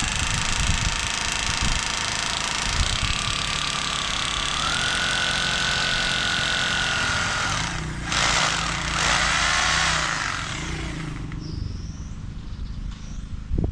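Electric drill running as it bores mounting holes: a steady motor whine that steps up in pitch about five seconds in, turns rougher and noisier for a couple of seconds around eight seconds, then runs down near eleven seconds.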